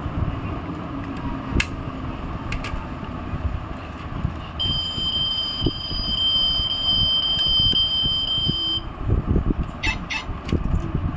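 A steady, high-pitched electronic tone held for about four seconds around the middle, over low rumbling noise and a few sharp clicks.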